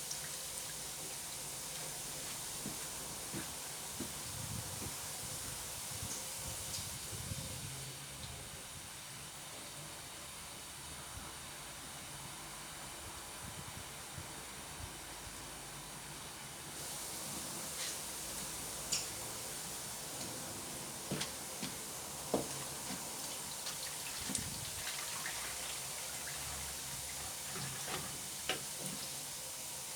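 Water running steadily from a kitchen tap to fill a jug, an even hiss, with a few light knocks and clinks of the jug in the second half.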